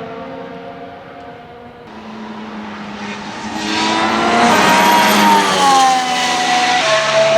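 Formula One car's turbocharged V6 hybrid engine at high revs, approaching and passing, loudest from about halfway in, with its pitch falling as it goes by. A fainter car's engine fades away in the first two seconds.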